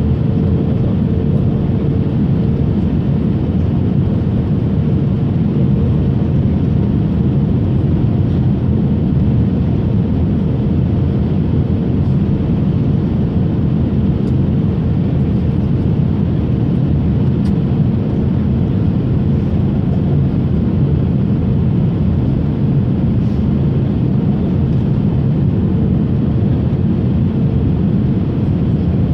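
Passenger airliner cabin noise: a steady engine and airflow rumble with a faint steady hum over it, heard from inside the cabin.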